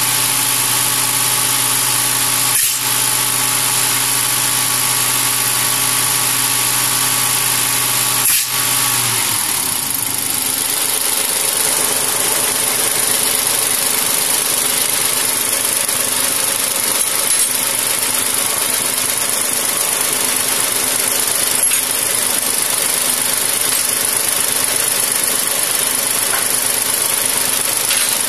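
Mahindra tractor's diesel engine running steadily. About eight seconds in, a click is followed by a change in its note, as the engine speed shifts and settles into a new steady run.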